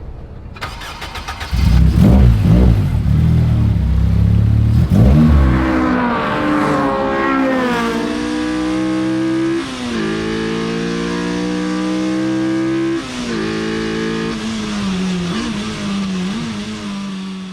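K-swapped Honda Civic's four-cylinder engine accelerating hard through the gears. The pitch climbs and drops sharply at each upshift, about three times, then levels off near the end.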